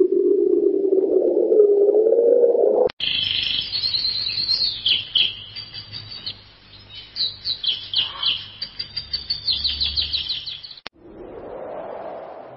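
Small birds chirping in quick repeated trills for about eight seconds. Before them comes a low wavering tone that cuts off abruptly about three seconds in. After them, near the end, the birds cut off and a rushing noise rises.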